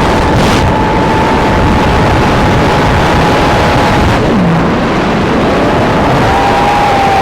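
A 3-inch FPV quadcopter's brushless motors and propellers whining steadily at high throttle under a heavy rushing wind noise. About four seconds in, the pitch drops sharply as the throttle is chopped, then glides back up as the motors spool up again.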